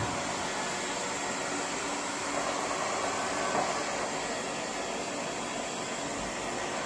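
LEFANT M210P robot vacuum running, its suction fan giving a steady, even whir with a faint high whine.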